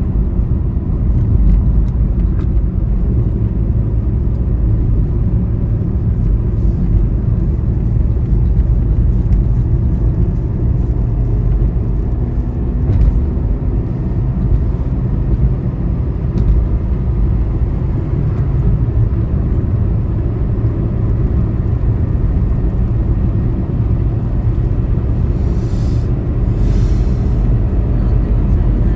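A motor vehicle travelling on a highway: a steady, loud, low rumble of engine and tyres on the road. Two brief hissing sounds come near the end.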